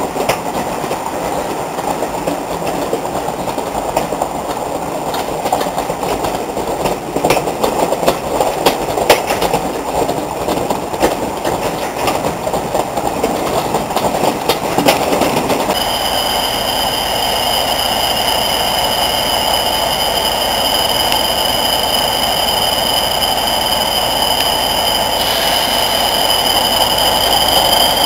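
Train wheels clattering rapidly over rail joints as the Class 40 train runs by. About halfway through the sound changes abruptly to a steady high whistle over a rumbling diesel: the English Electric Class 40's turbocharger whistle.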